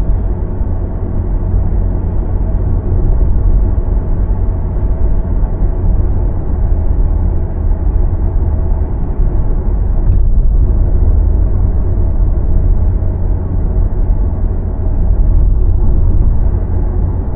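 Steady low rumble of a car driving on the road, tyre and engine noise without break, easing briefly about ten seconds in.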